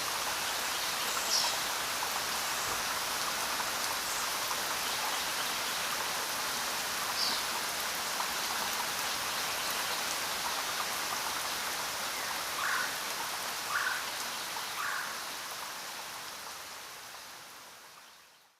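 Steady rain falling, with a few short chirps now and then over it. The rain fades out near the end.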